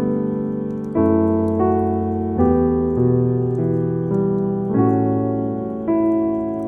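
Slow, gentle solo piano music: sustained chords, a new one struck about every second, each fading before the next. Faint crackles sit behind it.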